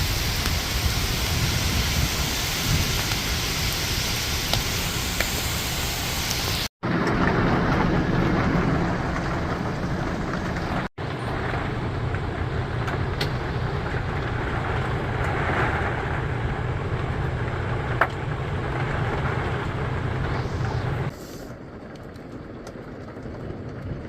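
Steady heavy rain falling, heard in several short clips that cut abruptly from one to the next; in the last few seconds it is quieter.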